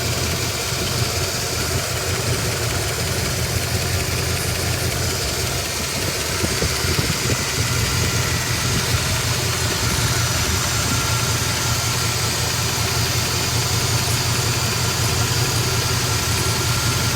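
Supercharged Studebaker Avanti R2 289 V8 engine of a 1959 Studebaker Lark restomod idling steadily.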